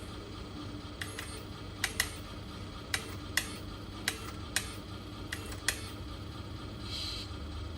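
Low steady hum of a 1/14-scale radio-controlled skip loader truck, with about a dozen sharp mechanical clicks at irregular intervals.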